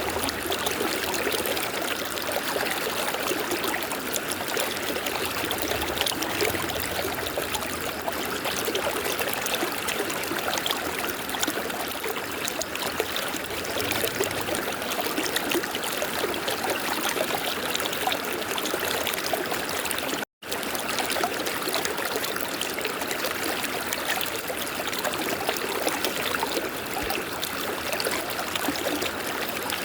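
River water flowing in a steady rush, broken once by a split-second dropout to silence about two-thirds of the way through.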